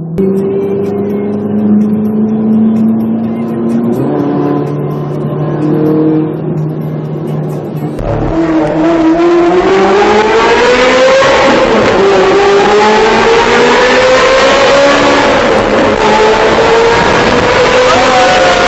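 Supercar engine in a tunnel: first held at steady revs with a few steps in pitch, then, about halfway through, a hard acceleration whose pitch climbs steadily through the gears, dropping briefly at each upshift, echoing off the tunnel walls.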